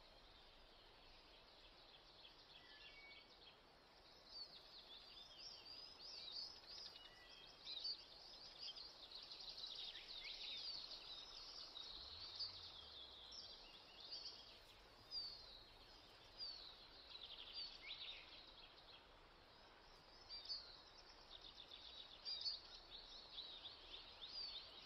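Faint birds chirping, with many quick overlapping chirps all through, over a soft hiss.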